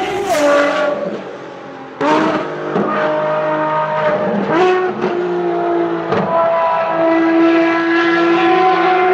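Ferrari racing car engine at high revs, shifting gears, its pitch jumping abruptly several times and holding steady between shifts.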